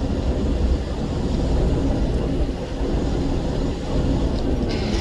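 Semi-truck tractor driving bobtail, heard from inside the cab: a steady low engine and road rumble.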